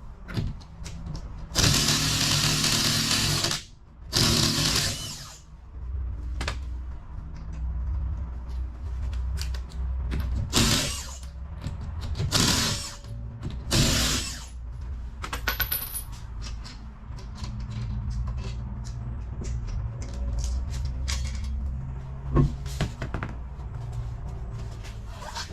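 Impact wrench running in five bursts, the first about two seconds long and the rest shorter, loosening the wheel's lug nuts.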